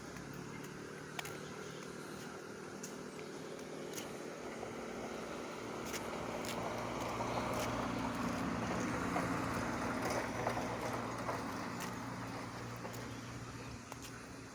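A motor engine's steady hum that grows louder toward the middle and then fades away, with scattered light clicks.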